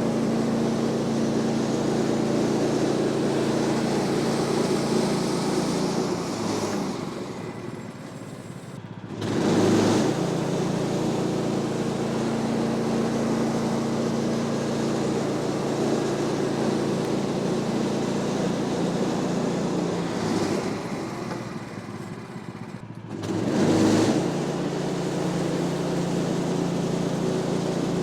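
Woodland Mills HM126 portable bandsaw mill running with its gas engine at a steady drone. Twice the sound sinks quieter over a couple of seconds, then comes back with a brief loud surge, about a third of the way in and again near the end.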